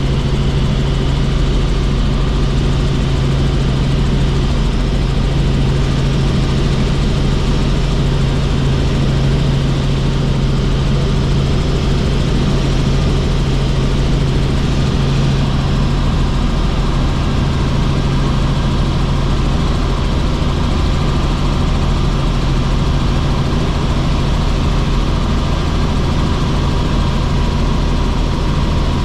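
Helicopter in flight: a loud, steady engine and rotor drone with a strong low hum.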